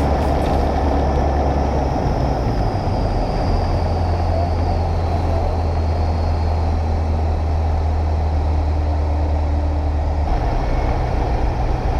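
A light bush plane's piston engine and propeller droning steadily in flight. The drone steps up in pitch about three and a half seconds in and again near the end.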